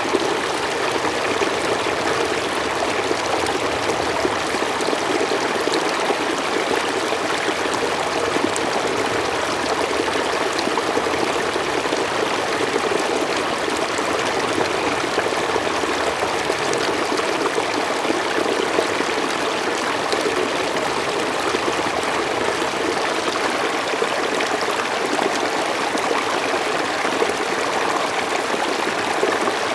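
Mountain stream flowing steadily over rocks, a continuous rushing with trickling detail and no pauses.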